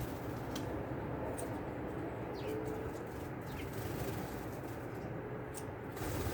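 Small birds at a backyard feeder calling with a few short down-slurred chirps, over a steady background hiss and rumble with scattered faint clicks.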